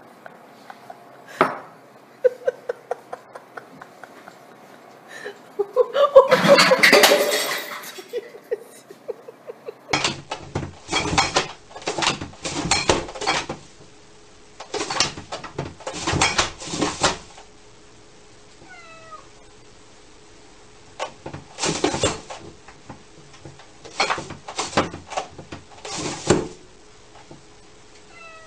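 Domestic cats meowing and yowling. The loudest is a long, noisy yowl about six seconds in; from about ten seconds on, short calls and knocks come in quick groups.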